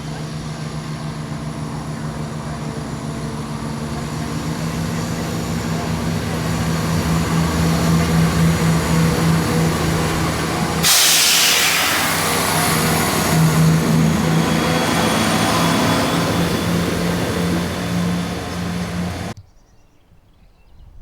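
Diesel-hauled train approaching and passing, its engine throb getting louder over the first several seconds. About halfway through a sudden loud rush of wheel and air noise comes as it goes by, then the sound cuts off abruptly near the end.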